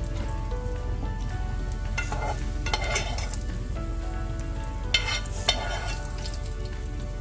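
Bacon sizzling in a frying pan, with a few short scraping bursts and two sharp clicks about five seconds in.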